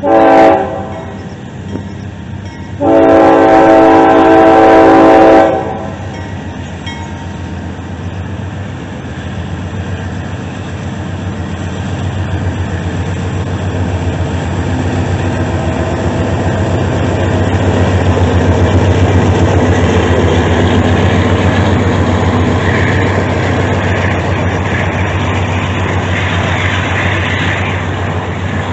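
Norfolk Southern diesel freight locomotive sounding its horn: a short toot, then a long blast of a few seconds starting about three seconds in. The locomotive's engine then passes loudly, and the freight cars roll by with wheel clatter.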